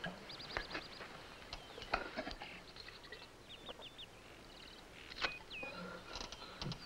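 Small birds chirping: repeated short falling chirps and quick rapid trills, with a few faint knocks.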